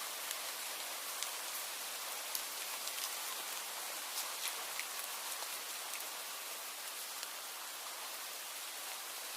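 Steady rain falling, an even hiss with many small drops ticking on a surface, a little denser in the first half.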